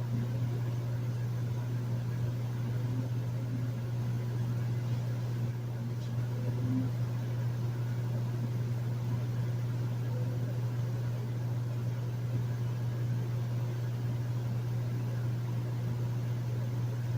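Hotel room air conditioner running steadily: a constant low hum under an even rush of air, with no change in level.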